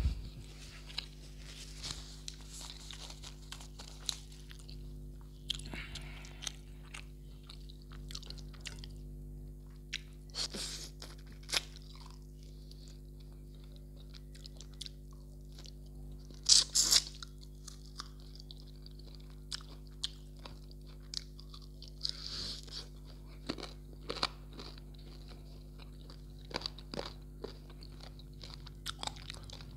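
Close-miked eating: a person chewing mouthfuls of rice and mutton curry, with scattered crunches and sharp clicks, the loudest burst of crunching about halfway through. A steady low hum runs underneath.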